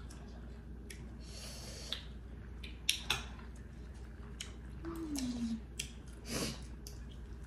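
Close-up mouth sounds of eating: scattered chewing and lip-smacking clicks and a couple of breathy sniffs. About five seconds in there is a short hummed "mm" that falls in pitch.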